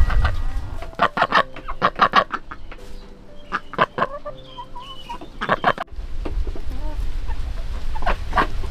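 Chickens clucking in clusters of short calls, with faint higher chirps in between. A low rumble comes in about six seconds in.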